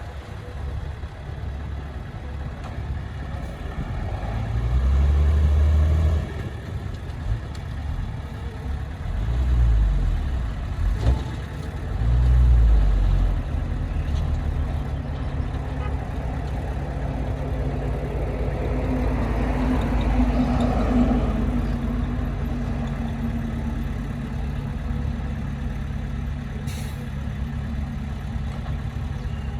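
Heavy diesel engine of earthmoving equipment running steadily, with three short surges of low rumble in the first half as it is throttled up, and a longer, louder stretch in the middle.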